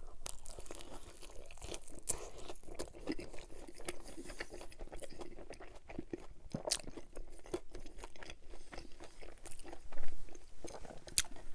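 Close-miked chewing of a pan-crust pizza slice folded around a breaded chicken finger, with a steady run of crisp crust crunches and crackles and a few louder crunches in the second half.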